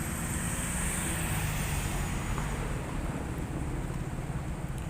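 Steady city street traffic noise, with the low hum of engines running.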